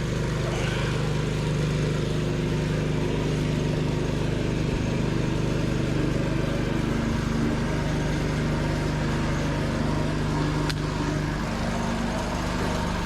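A heavy vehicle's engine running steadily at a constant low speed.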